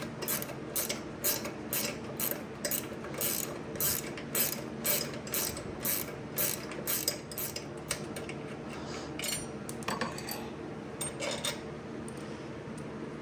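Hand ratchet wrench clicking at about three clicks a second as the go-kart's engine mounting bolts are backed out. The clicking stops about nine seconds in, with a few more clicks shortly after.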